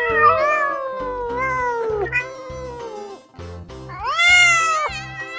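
Domestic cat meowing: one long meow that slowly falls in pitch, then a shorter rising-and-falling meow about four seconds in, over background music with a steady beat.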